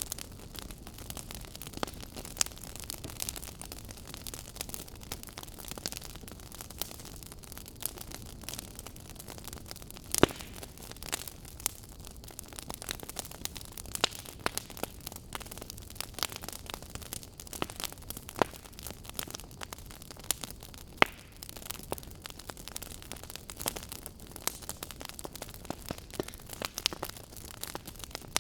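Fire crackling in a fireplace: a steady hiss with irregular sharp pops and snaps, the loudest about ten seconds in and again about twenty-one seconds in.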